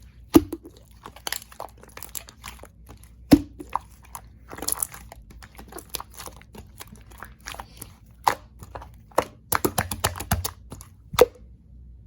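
Slime being squeezed and pressed by hand, giving irregular sharp sticky clicks and pops, with a quick run of them near the end before they stop.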